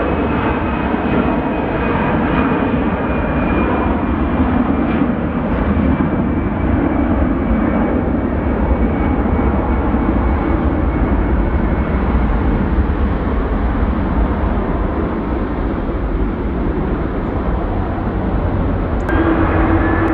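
Jet airliner engines running loud and steady, with a faint whine slowly falling in pitch. Near the end the sound changes abruptly to a steady low hum.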